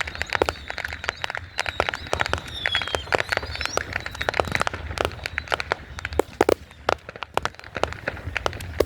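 Fireworks going off in rapid, irregular cracks and pops. A thin whistle is held for the first three seconds or so and drops in pitch near its end.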